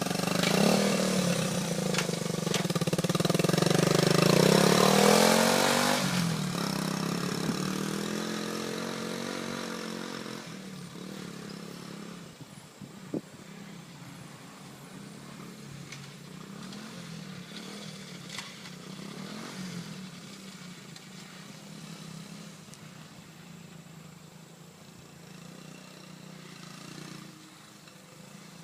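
1977 Honda CT90 trail bike's small single-cylinder four-stroke engine revving up to a peak about five seconds in, then dropping back and growing steadily fainter as the bike is ridden away.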